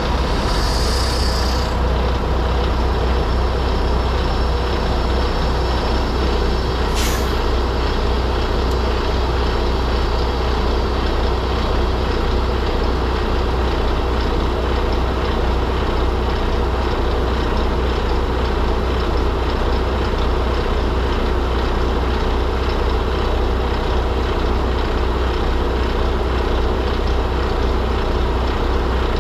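Semi-truck running down the road, a steady low drone of diesel engine and road noise. A short hiss of air comes about a second in, and a brief sharp hiss follows near 7 seconds.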